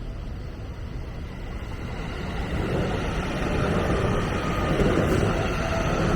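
A train approaching on the rails, its running noise rising over a few seconds to a steady loud rumble with a faint whine.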